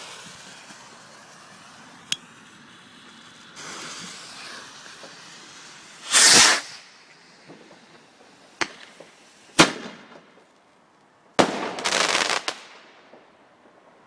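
Fireworks going off: single sharp bangs, a loud burst about six seconds in, and another burst near the end that breaks into about a second of crackling.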